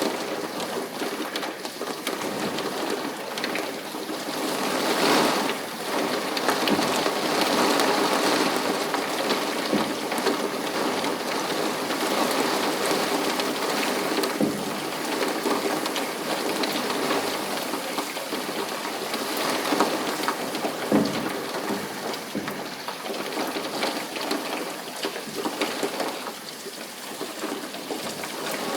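Steady rain falling, an even hiss with a few brief louder swells.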